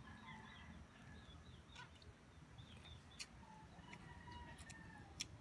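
Faint birds chirping in short calls, with a few sharp clicks about two, three and five seconds in.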